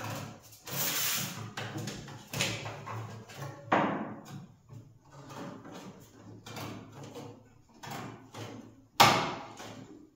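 Hand tin snips cutting 0.8 mm stainless steel sheet: irregular crunching snips with the sheet rattling and flexing, and a loud metallic clank about nine seconds in.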